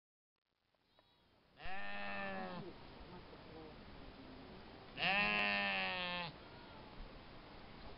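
Sheep bleating twice: two long calls, each about a second, a few seconds apart.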